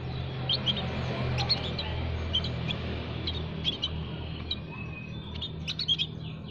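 Several small songbirds chirping in an aviary: many short, high chirps, quick and irregular, from more than one bird, over a low steady hum.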